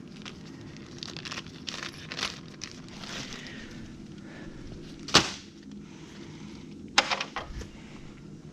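Sharp knocks and clicks of hand tools working on a car's front-end bodywork, with one loud strike about five seconds in and a quick cluster of knocks about two seconds later, over a steady low hum.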